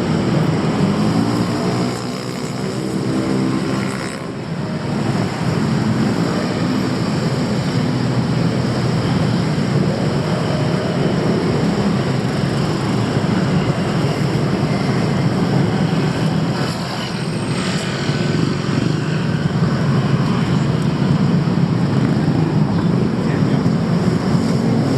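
Busy street traffic: motor vehicles running close by in a steady mix of engine hum and road noise, with a pitched engine note in the first couple of seconds.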